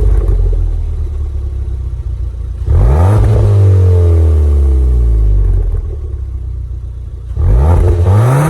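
A Ford Fiesta ST's engine through an aftermarket 2J Racing side-exit exhaust, revving hard twice. Each time the pitch climbs quickly, then falls away in a long slide over a few seconds. The second run begins near the end.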